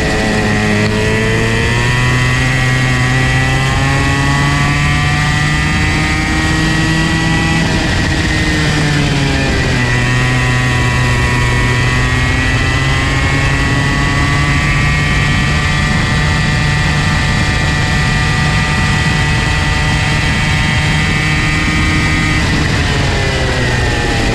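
Comer C50 two-stroke kart engine under way, its note climbing steadily, dropping off about eight seconds in, climbing again and holding, then dropping once more near the end: accelerating along straights and easing off for corners.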